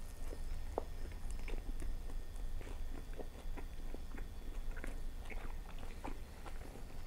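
Close-miked chewing of a bite of fried egg roll: a steady stream of small, irregular crunches and mouth clicks.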